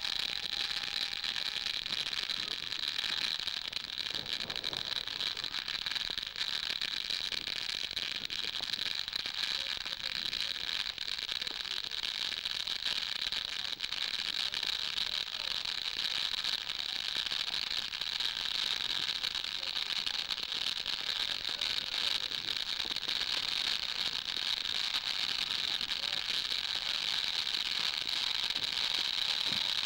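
Ground firework fountain burning with a steady hiss and fine crackle, holding the same level without any big bangs.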